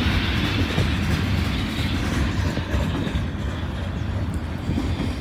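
Freight cars of a long CSX mixed manifest train rolling past on jointed track with a steady rumble and wheel clatter, the hiss thinning out over the last few seconds as the end of the train goes by.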